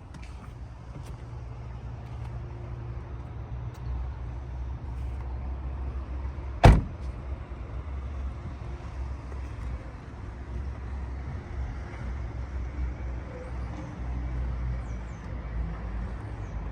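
Low, steady car rumble, with one sharp knock about seven seconds in.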